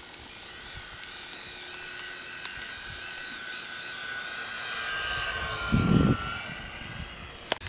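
Whine of a radio-controlled model aircraft's motor and propeller in flight, its pitch wavering and drifting as it manoeuvres. A brief low thud comes just under six seconds in, and a sharp click near the end.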